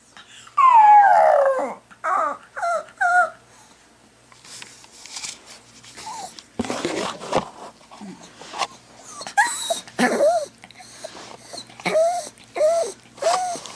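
Dog howling and whining in distress at being left alone by its owner: a long howl that falls steeply in pitch, three short yelps, a few seconds of breathy noises, then a run of short, repeated whines.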